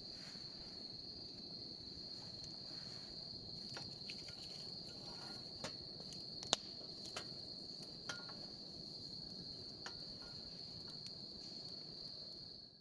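Crickets chirring in one steady, continuous high-pitched tone, with scattered sharp clicks and pops; the loudest comes about halfway through.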